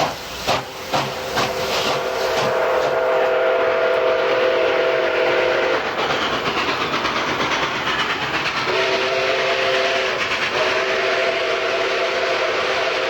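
Steam locomotive working: sharp exhaust chuffs about two a second, then its chime steam whistle sounding a long blast of several notes at once. After a pause of a few seconds it blows twice more, over a steady rush of steam and train noise.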